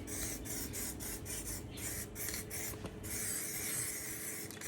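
Aerosol spray paint can hissing in a run of short bursts, then held down in one longer, steady spray about three seconds in.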